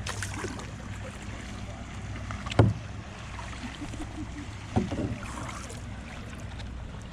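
Steady low hum of a boat motor on the water, with two sharp knocks, one about two and a half seconds in and a second near the five-second mark; the first knock is the loudest sound.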